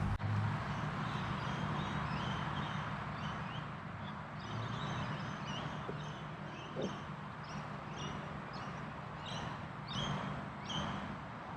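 Outdoor ambience picked up by a GoPro microphone on a windy day: a steady hiss of wind, rustling trees and distant highway traffic. Over it, birds chirp in short, repeated calls.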